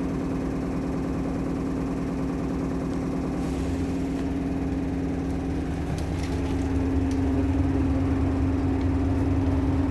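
Engine running steadily with a constant hum. Its low rumble grows louder about four seconds in and again near the end.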